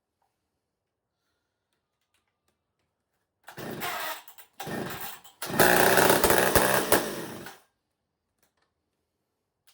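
McCulloch Pro Mac 55 two-stroke chainsaw being cold-started: after a silence it sputters twice briefly, then fires for about two seconds and dies away.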